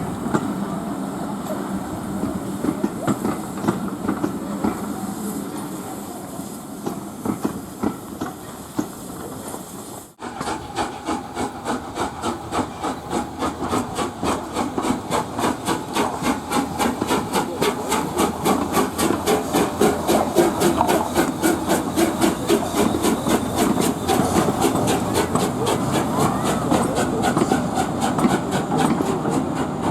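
Steam-hauled train running, with hiss at first. About ten seconds in, after a break, a steady rhythmic beat of about four a second starts and grows louder.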